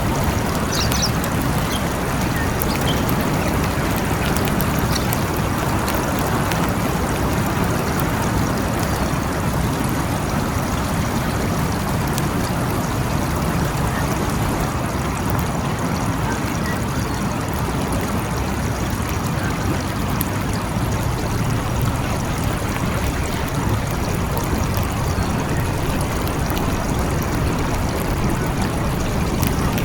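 Steady rain falling, an even wash of noise with no thunder in it.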